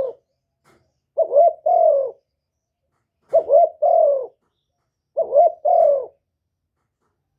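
Spotted dove cooing: three short multi-note coo phrases about two seconds apart, after the tail of one right at the start.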